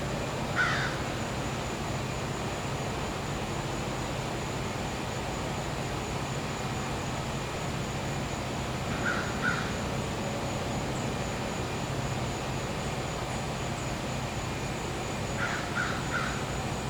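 Bird calls over the steady hum of a gas-powered generator, with a high, steady insect trill throughout. One call comes right at the start, two close together midway, and three close together near the end.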